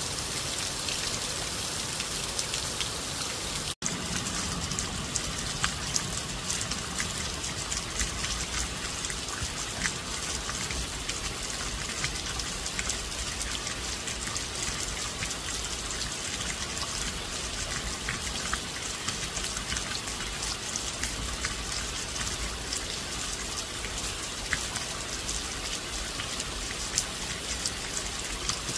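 Steady rain falling, an even hiss dotted with the small sharp ticks of individual drops striking a surface. The sound cuts out for a split second about four seconds in, then carries on with a little more low rush.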